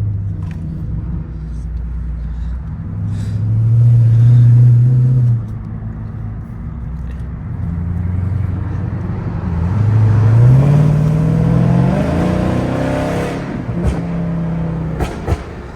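Tuned Dodge Charger SRT Daytona's 392 V8 engine running while driving: it holds a steady low note, comes up louder for a couple of seconds, then rises in pitch under acceleration about ten to thirteen seconds in before settling back.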